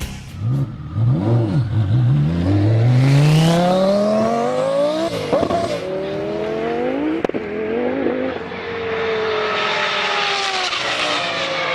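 Twin-turbo Lamborghini Huracán V10 at full throttle on a half-mile pass, its engine pitch climbing through several upshifts. There is a sharp crack about seven seconds in. The engine then holds a high steady note that slowly eases off under a rising rush of wind and tyre noise.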